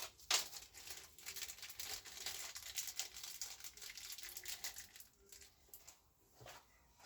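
Plastic bag crinkling and rustling as it is handled, dense for about five seconds, then a few faint clicks.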